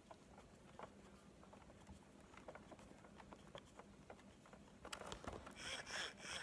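Faint, scattered clicks and taps of small plastic parts of a Big Mouth Billy Bass singing fish being handled. About five seconds in they give way to a louder, repeating rattle.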